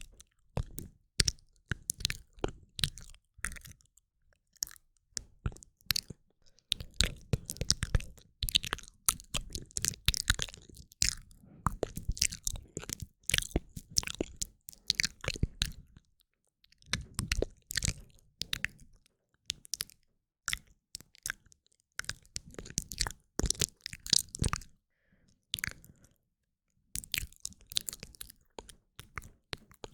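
Close-miked wet mouth sounds: rapid clusters of tongue clicks, lip smacks and saliva crackles, broken by short pauses.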